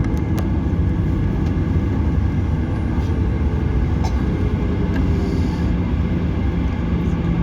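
Airliner heard from inside the passenger cabin at takeoff: a steady, loud rumble of engines and wheels on the runway. A steady engine hum comes in about halfway through and holds.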